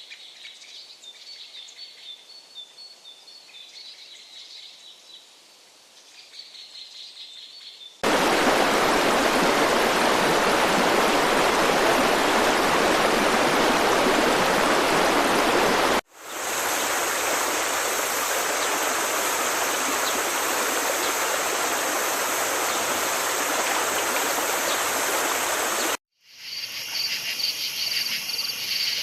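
Nature ambience in abruptly cut segments. Faint bird chirps give way about eight seconds in to loud rushing water. Then comes a steady high insect drone over noise, and near the end rapid, even chirping.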